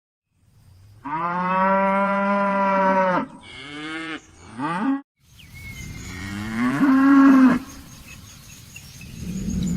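Cattle mooing: a long, level moo about a second in, then shorter moos rising in pitch, and another long moo that climbs and peaks around seven seconds.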